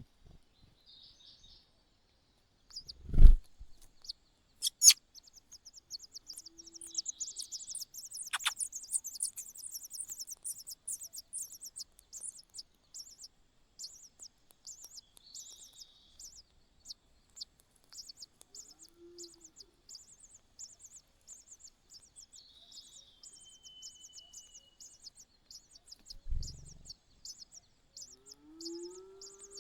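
Rapid high-pitched begging chirps of a nestling bird in the nest, several a second, running on from a few seconds in. Two dull thumps break in, the loudest a few seconds in and another near the end.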